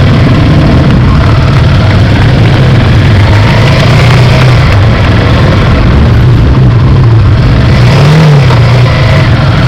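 Motorcycle engine running loud and steady, its pitch wavering slightly and rising briefly about eight seconds in.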